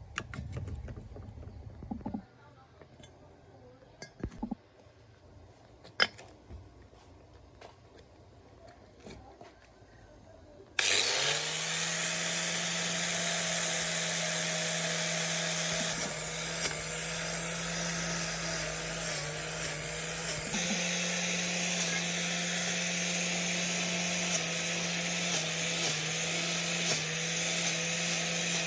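Scattered light clicks and taps, then about eleven seconds in a power tool starts up suddenly and runs steadily with a high whine.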